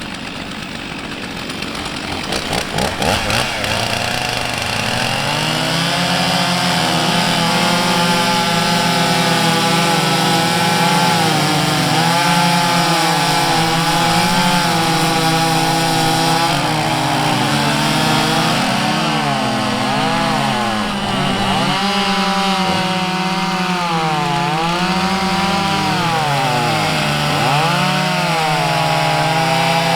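Two-stroke chainsaw brought up to speed, then running at high revs while cutting wood, its engine note dipping and recovering several times as the chain loads in the cut.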